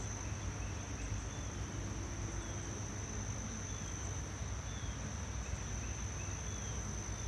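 Steady insect noise outdoors: a high continuous whine over a low even hum, with a few faint bird chirps.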